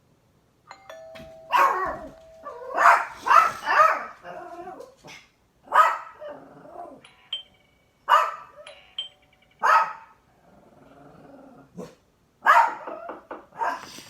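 A doorbell ding-dong, then dogs barking in loud, sharp bursts, some in quick runs of several barks.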